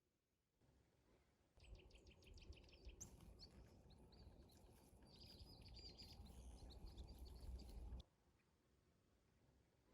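Small birds chirping in quick repeated calls over a low rumbling background noise. It starts about a second and a half in and cuts off abruptly near the end.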